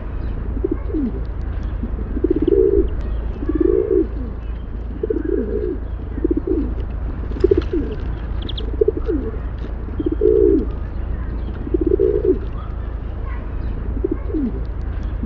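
Pigeons cooing, a string of low, throaty coos repeating about every second or so, over a steady low hum.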